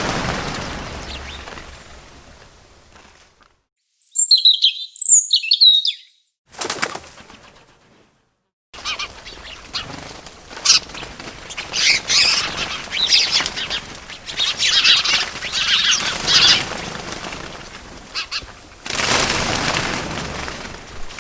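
Small birds chirping and wings flapping in separate short bursts. A whoosh of flapping fades out, then a few sharp high chirps come about four seconds in. After a brief flutter, a long stretch of busy chirping over flapping ends in another surge of flapping.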